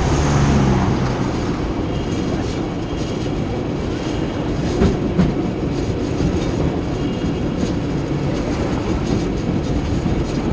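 San Francisco tram running along its track, heard on board: a steady rumble with a few sharp clicks and knocks from the wheels and rails.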